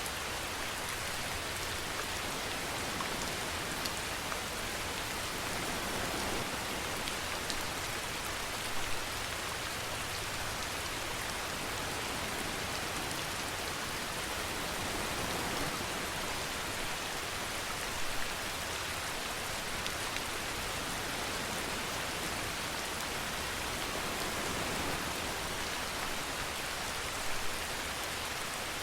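Steady rainfall falling on a surface, an even hiss with a few louder drop hits now and then.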